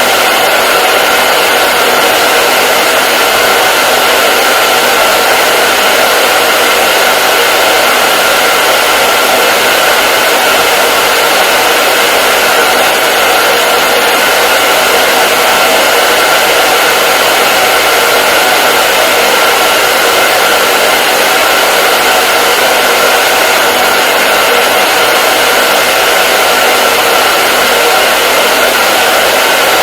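Hair dryer running continuously: a loud, steady rushing of fan and airflow with a constant whine, unchanging.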